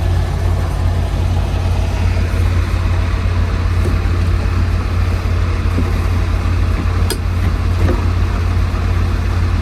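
Semi truck's diesel engine running with a steady low drone, heard from inside the cab. A single sharp click sounds about seven seconds in.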